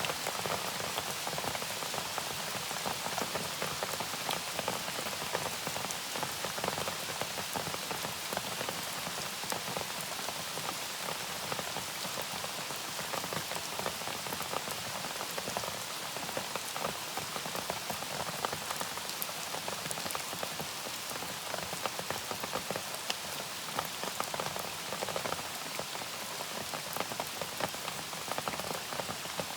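Steady rain falling on a surface, a dense patter of many separate drops without let-up.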